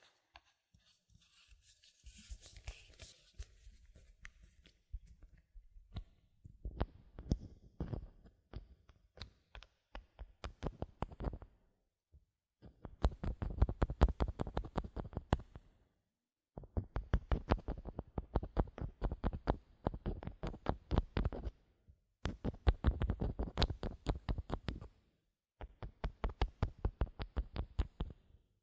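Bottle caps handled close to the microphone: after a soft rustle near the start, runs of rapid small clicks lasting a few seconds each, separated by short pauses.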